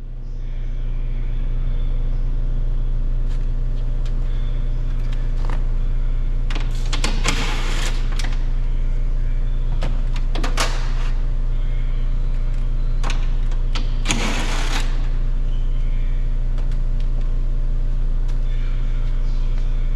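A steady low hum throughout, with three short bursts of rasping noise about seven, ten and fourteen seconds in.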